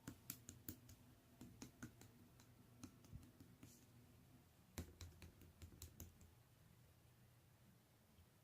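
Faint, irregular clicks and light taps, a dozen or so over the first six seconds with a quick run of them about five seconds in, then only a faint low hum.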